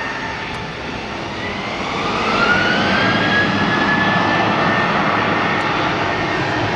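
Jet airliner engines, a steady rush with a whine that rises in pitch about a second and a half in and then holds, the whole sound growing louder about two seconds in.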